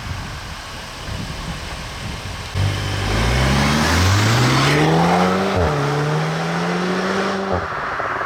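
Audi S3's turbocharged 2.0-litre four-cylinder with Akrapovic exhaust accelerating under wind and road noise. The engine comes in strongly about two and a half seconds in and rises in pitch. It drops sharply at a gear change about five and a half seconds in, climbs again, and falls away near the end.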